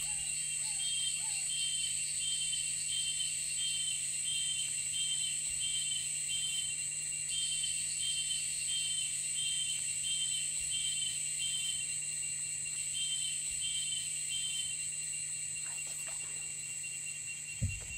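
Tropical forest ambience: a steady high-pitched insect drone with a short call repeated over and over at an even rate, pausing briefly a couple of times.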